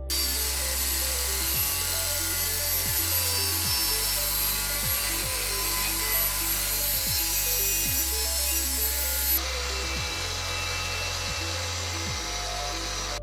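Corded INGCO angle grinder with a grinding disc running against iron, a dense harsh grinding hiss that starts and stops abruptly and turns duller about nine seconds in.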